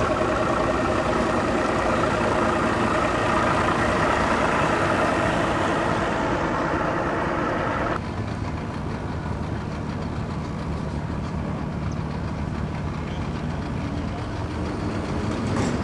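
Engine running steadily with an even drone; about eight seconds in the higher part of the sound cuts off abruptly, leaving a lower, quieter engine drone.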